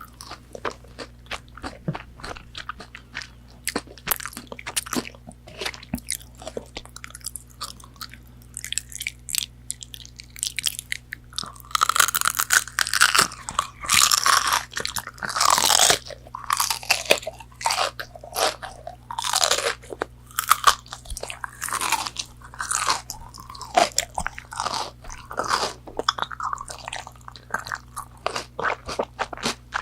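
Close-miked chewing and crunching of McDonald's fast food: crisp bites and wet mouth sounds, denser and louder through the middle.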